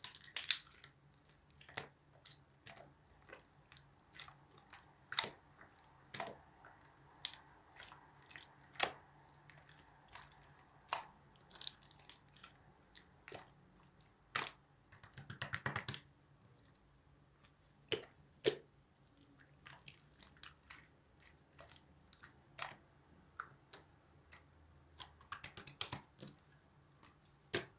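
Slime being squeezed and poked by hand, making irregular sticky clicks and pops, with a short run of rapid crackling about halfway through.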